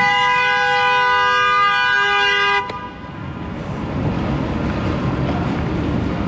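A vehicle horn sounds one long, steady blast of about two and a half seconds, a two-tone chord, and cuts off suddenly, leaving street traffic noise.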